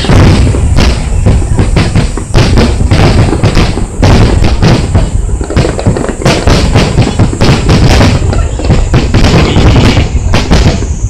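Fireworks bursting in rapid succession: a dense barrage of booms and crackling bangs over a continuous low rumble, many reports a second with short gaps around four and five seconds in.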